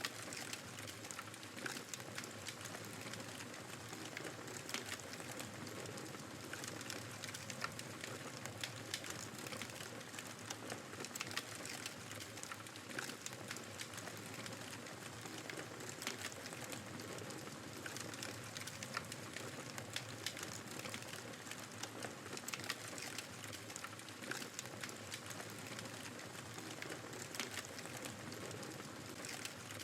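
Wood fire crackling, with frequent small irregular pops over a steady rushing hiss of blizzard wind.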